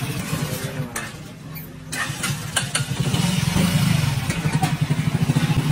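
Motorcycle engine of a sidecar tricycle running on the move, easing off briefly about a second in, then picking up and pulling harder again.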